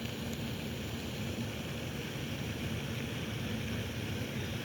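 Steady outdoor noise of falling rain, with a low rumble of wind buffeting the microphone.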